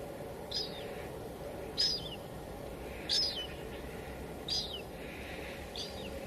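Steady hiss of light drizzle, with a bird calling five times over it: short, high notes that drop in pitch, evenly spaced about a second and a quarter apart.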